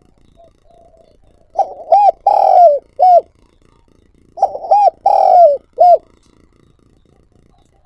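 Spotted dove cooing: two phrases a little under three seconds apart, each a few short hooting notes around one longer drawn-out coo that falls at its end.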